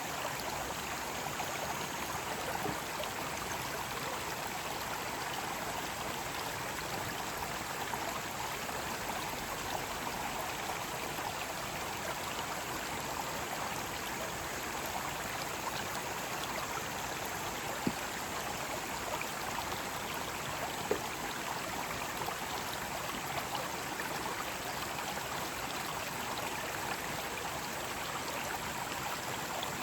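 Mountain stream with water rushing steadily over rocks, an even, unbroken sound. Two short clicks stand out briefly in the second half.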